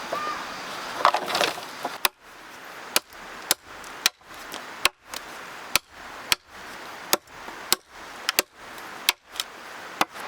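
Repeated sharp strikes of a tool on wood, roughly one to two a second, starting about two seconds in.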